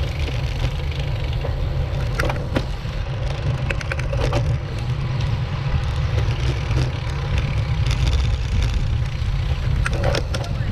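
Steady low rumble of a moving motorcycle ride, engine and wind noise together, with a few faint ticks and clicks.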